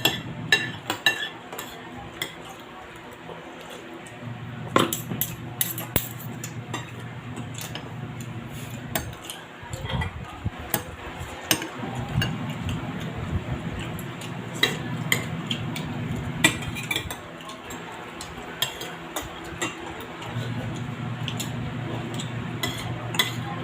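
Spoon and fork clinking and scraping against plates and a soup bowl during a meal, in scattered sharp clinks, over a low background hum that comes and goes.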